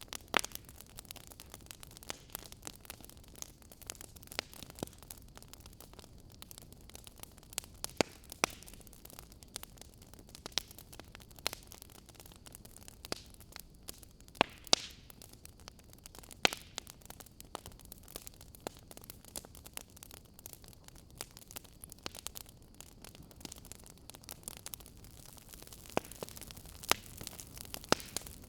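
Fire crackling: irregular sharp pops and snaps over a soft steady hiss, with a few louder pops scattered through, two of them close together about halfway.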